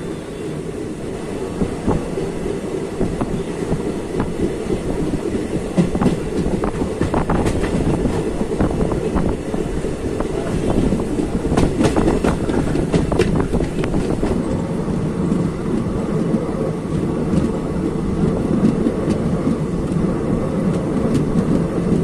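Passenger train coaches running, heard from on board: a steady rumble of wheels on track, with a run of sharp wheel clicks over rail joints in the middle.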